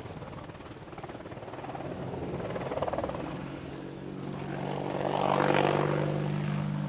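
Helicopter flying by, its rotor and engine noise swelling twice and loudest about five and a half seconds in, with a steady low hum underneath.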